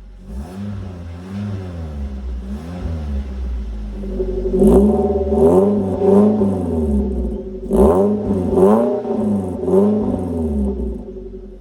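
Perodua Myvi engine through a valved aftermarket exhaust, revved in repeated throttle blips, each rising and falling in pitch. A few lighter blips come first, then two louder runs of three or four blips, starting about four and about eight seconds in.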